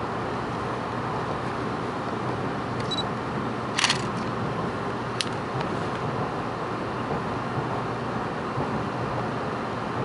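Cabin noise of a Tokaido Shinkansen train moving out of the station, a steady rumble and hiss, with two sharp clicks about four and five seconds in.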